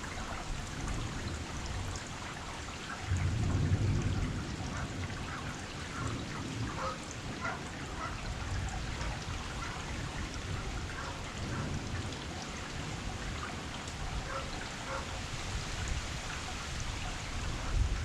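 Heavy rain falling steadily, with individual drops striking and dripping onto surfaces, and a low rumble that swells about three seconds in.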